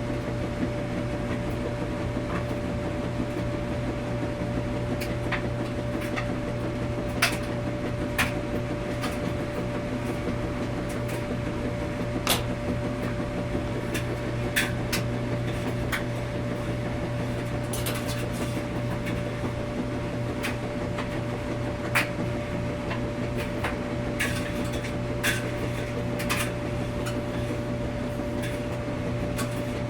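Washing machine running with a steady low hum and a constant tone, and a scattering of sharp clicks and knocks, about a dozen of them, at uneven intervals.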